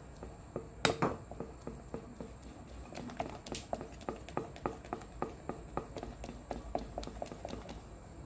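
A utensil stirring thick melted soap in a pot, knocking against the pot about four times a second, with one louder knock about a second in.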